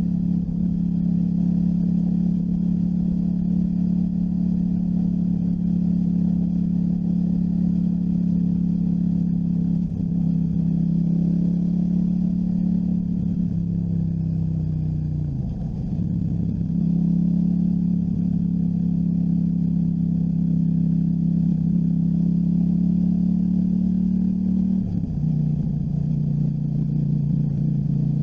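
KTM 790 Duke's parallel-twin engine running under steady cruising throttle. The note breaks briefly about ten seconds in and again near the end. About halfway the pitch falls away as the throttle is rolled off, then picks back up.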